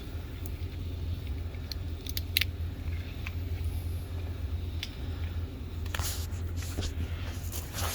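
Scattered sharp clicks and snips of a silicone cartridge's nozzle tip being cut off and the tube handled, over a steady low hum.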